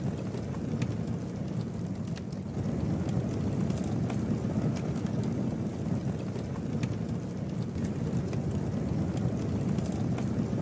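Campfire burning: a steady low rumble of flames with scattered sharp crackles and pops at irregular moments.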